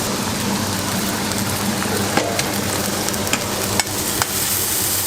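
Chicken sizzling as it fries in a pan, with a few sharp clicks of a utensil stirring it against the pan.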